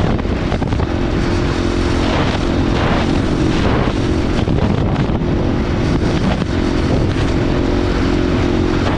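KTM 500 dirt bike's engine idling steadily.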